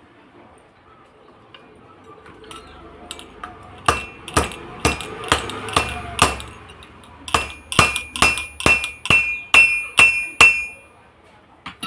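Hammer striking metal during a shaft-bush change on an exhaust-fan motor. About fourteen sharp blows come at roughly two a second in two runs with a short pause between, and the later blows ring.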